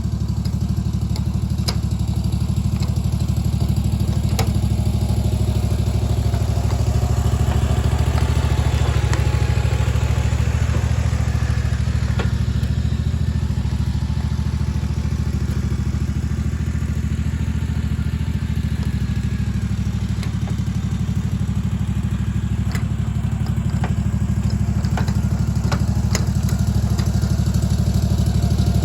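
Bunton 48-inch walk-behind mower's engine running steadily under way. Occasional sharp knocks and clatter sound over it.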